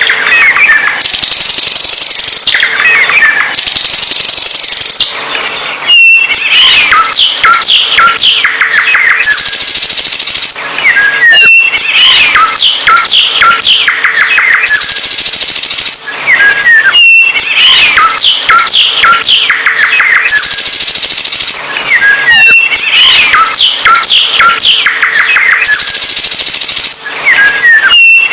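A songbird singing loudly and continuously, in fast chirps, trills and whistled glides. The same song phrase repeats about every five and a half seconds.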